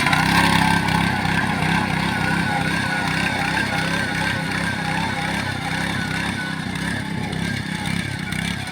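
Rice-harvesting machine running steadily, its engine holding a constant speed.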